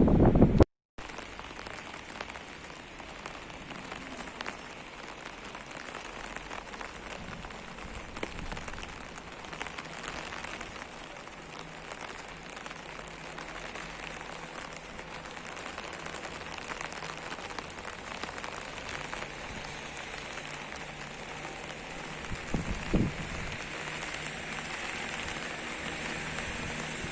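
Steady rain falling on hard surfaces, an even patter of many small drop hits. A short louder rush at the very start cuts off abruptly, and there is a brief low thud near the end.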